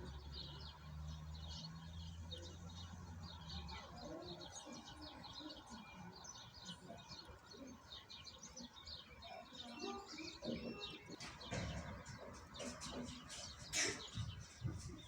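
Small birds chirping and twittering, many short high calls overlapping. A low steady hum runs under them for the first few seconds, and a brief sharp knock-like sound comes near the end.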